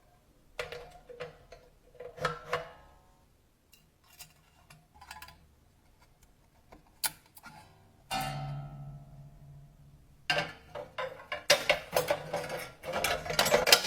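Vintage mechanical cash register being worked: keys pressed and the mechanism clacking in irregular clicks. There is a ringing metallic clang about eight seconds in and a fast run of clacks near the end.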